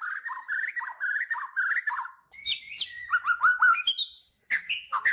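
Songbird singing a fast, varied song of quick warbled phrases, with a run of higher rising notes about halfway through.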